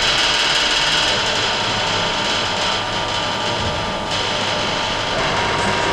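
Motor of a Lancaster landing-gear demonstration rig running with a steady mechanical whine as it moves the undercarriage. Its pitch drops slightly about five seconds in.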